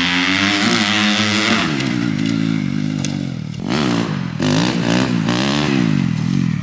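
Dirt bike engine revving under throttle, its pitch climbing and dropping several times as the bike is ridden, with sharp dips and climbs in the second half.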